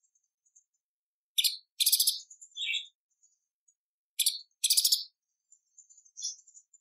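Orange-bellied leafbird (cucak cungkok) singing: short bursts of rapid, high-pitched rattling chatter, a cluster starting about a second and a half in and another past four seconds, with faint high twittering between and near the end.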